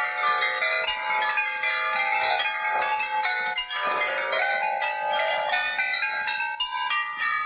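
Many marbles rolling down a marble run and striking its chime pieces: a dense, rapid stream of bell-like tones mixed with small clicks, which thins out and rings away at the very end.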